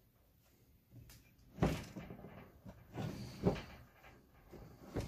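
Handling noise as a greasy chainsaw is wiped down with a rag: a few short knocks and rubbing scrapes in three bouts, about two seconds in, around the middle, and near the end.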